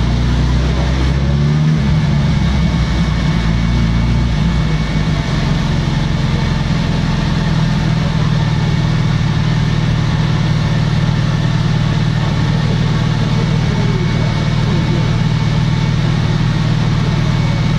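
Motorcycle engine running on a dynamometer, its pitch shifting during the first few seconds and then holding steady.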